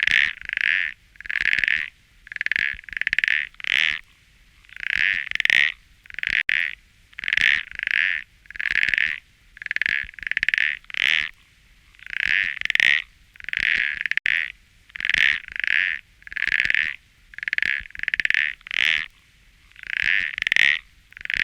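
An animal calling over and over in short, even calls, about two a second.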